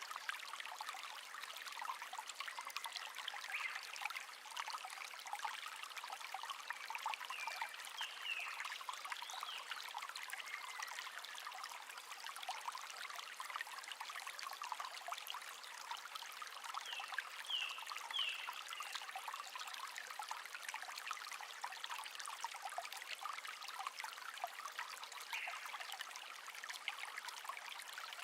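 Shallow babbling stream trickling steadily over stones, with a few short bird chirps scattered over the water sound.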